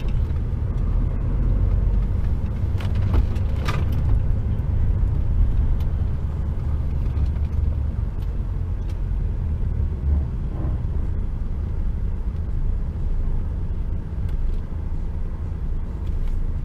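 Inside the cab of an HGV truck on the move: steady low engine and road rumble, with a few brief light knocks about three to four seconds in.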